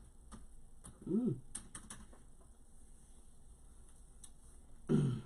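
Scattered light clicks and taps, with a short vocal sound about a second in and a louder brief vocal sound near the end.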